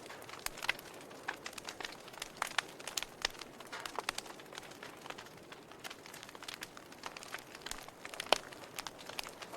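Wood fire crackling in a fireplace: irregular sharp pops and snaps over a soft hiss, with one louder pop a little past eight seconds in.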